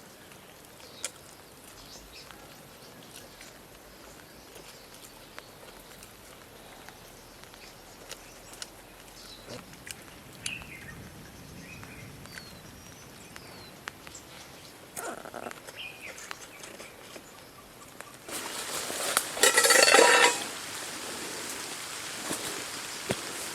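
Quiet forest ambience with scattered small clicks and a few brief bird chirps. About eighteen seconds in, a steady rushing hiss starts abruptly, with a louder burst just after it.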